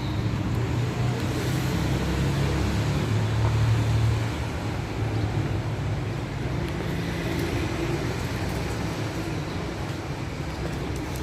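City street traffic: vehicle engines running close by over a steady road rumble, loudest in the first four seconds and then easing a little.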